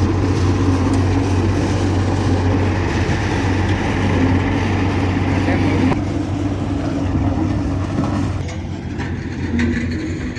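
Engine of heavy road-repair machinery running steadily with a constant low hum, a little quieter over the last couple of seconds.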